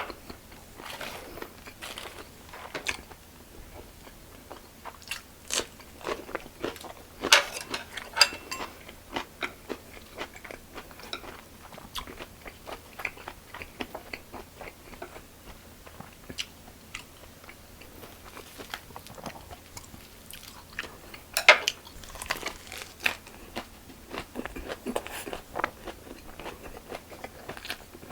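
A person chewing and crunching food close to the microphone, mukbang-style: a steady run of irregular crisp crunches and wet chewing, with a couple of louder sharp crunches about 7 and 21 seconds in.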